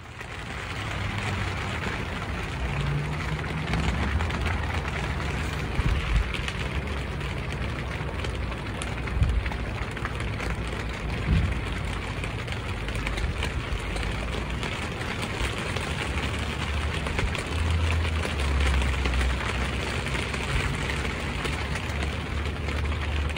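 Steady rain falling, a constant hiss with many individual drops ticking through it and an uneven low rumble underneath.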